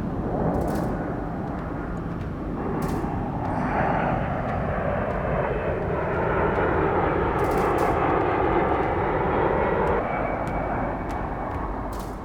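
Large aircraft flying past, its engine noise swelling from about three seconds in, with a cluster of steady tones, then dropping off sharply near ten seconds.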